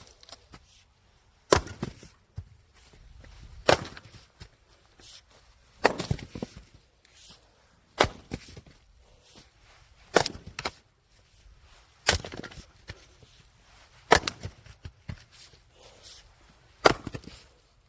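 Firewood being split: about eight sharp chopping blows, roughly two seconds apart, each followed by a brief clatter of wood.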